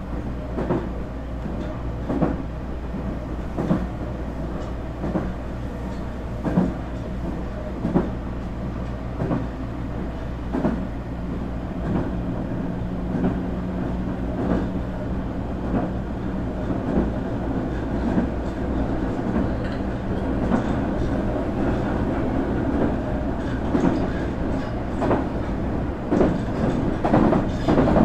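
Running sound inside a Nankai 8300 series electric train car with VVVF-inverter-driven, totally enclosed induction motors. The wheels click over rail joints about every second or so above a steady low rumble, and a steady tone holds for a few seconds partway through.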